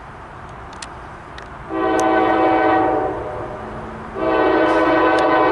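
CSX ES44AC(H) locomotive's air horn sounding two long chord blasts. The first starts about a second and a half in; the second starts about four seconds in and is still sounding at the end.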